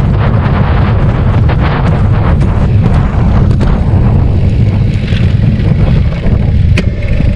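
Heavy wind buffeting the microphone of a bicycle rider moving at speed: a loud, continuous low rumble.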